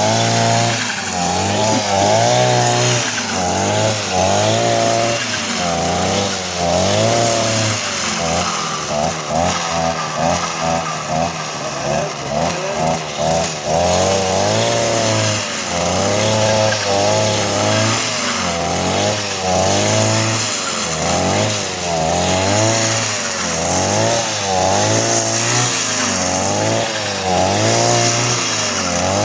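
Two-stroke brushcutter-like engine revving up and down over and over, its pitch rising and falling several times a second above a steady low drone.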